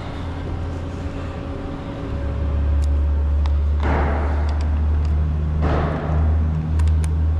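Resistance spot welder's loud, steady low hum, which gets louder about two seconds in, with two short hissing bursts about four and six seconds in.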